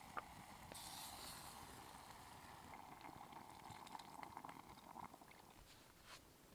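Faint, steady simmering of curry in a billy can over campfire coals, with a few small pops; it grows fainter toward the end.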